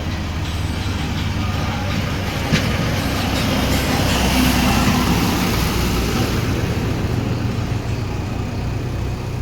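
Heavy diesel engine of an earth-moving machine or tractor running steadily, growing a little louder in the middle. A single sharp knock about two and a half seconds in.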